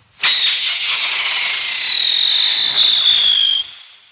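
Whistling spinner firework going off: a shrill, hissing whistle starts suddenly, slides slowly down in pitch for about three and a half seconds, then cuts off.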